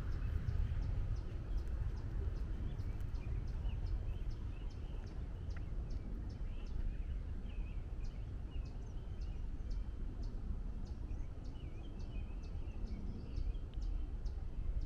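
Woodland ambience: a steady low rumble of distant highway and city traffic, with birds calling faintly over it. Short, high chips repeat at about two or three a second, with scattered warbling notes below them.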